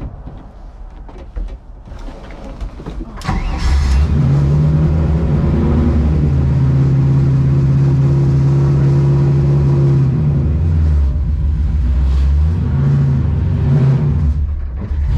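BMW E46 M3 race car's straight-six engine started up: it fires about three seconds in, then runs loud and steady at idle, the note dropping and picking up again a few times in the second half.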